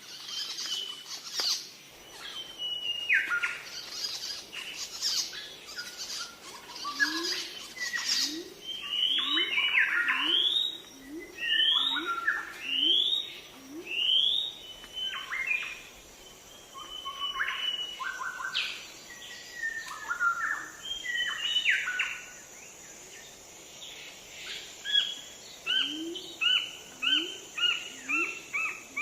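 Birds chirping and calling: repeated short rising chirps, about one a second through the middle, then a quicker run of short notes near the end.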